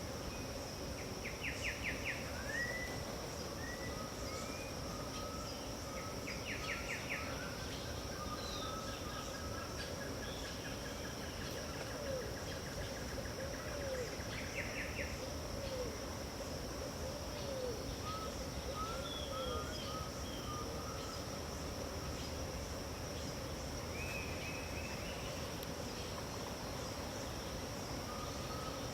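Dawn chorus in the Pantanal wetlands: several birds calling with short whistles, chirps and rapid trills over the steady high buzz of insects.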